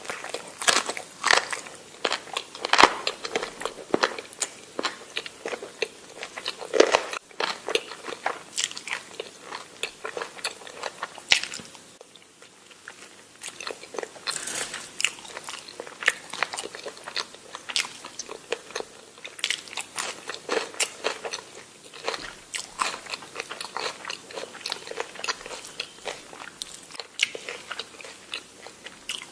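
Close-miked eating: a person chewing and biting food, with a steady run of wet clicks and crunches, quieter for a moment about twelve seconds in.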